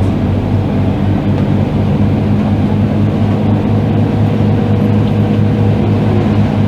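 Scania K310IB bus's diesel engine running at a steady speed, a constant low drone.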